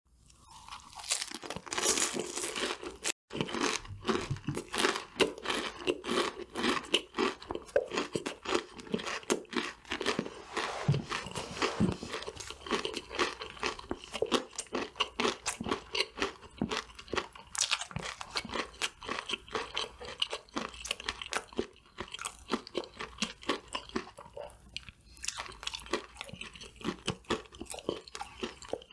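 Close-miked eating of crispy fried food: biting and chewing with dense, irregular crunches.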